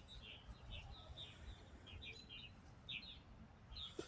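Faint chirping of small birds: many short, high chirps, a few a second, over a low rumble.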